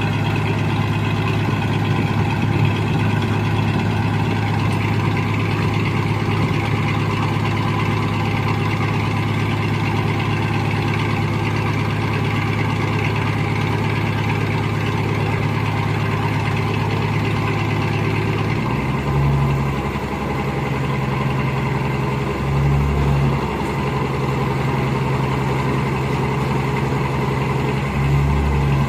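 Heavy diesel engine of construction machinery running steadily at idle. About two-thirds of the way through its note changes, and three brief swells follow.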